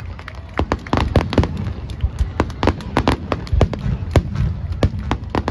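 Aerial fireworks bursting in quick succession: a dense run of sharp cracks and pops, several a second, over a continuous low rumble.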